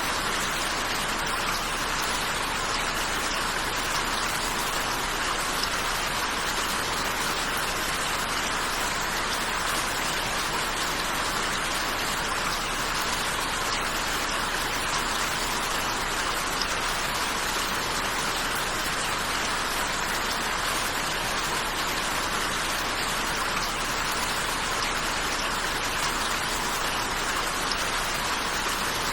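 Steady, even rain falling, with no breaks or changes in intensity.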